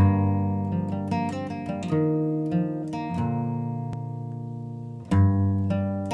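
Acoustic guitar intro: chords strummed about every second, each left to ring and fade before the next.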